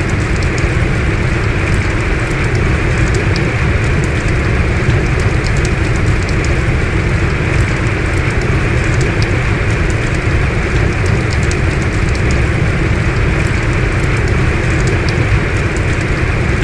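Heavy rain pouring steadily, a dense even hiss with a deep rumble underneath and scattered sharp drop ticks.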